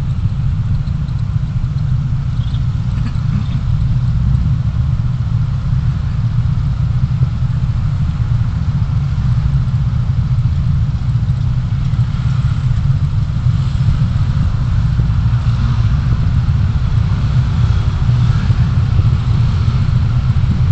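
Steady low rumble of a vehicle on the move, road and engine noise picked up by a dashcam, with no sharp events.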